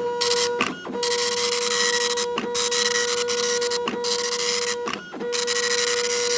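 A printer running in passes: a steady buzzing print stroke broken by short gaps about every one to one and a half seconds.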